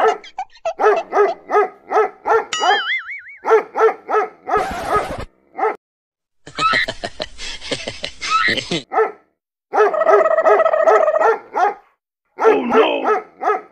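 A dog barking over and over in quick short barks, about three a second, in several runs with gaps between them. A short wobbling electronic tone cuts in about three seconds in.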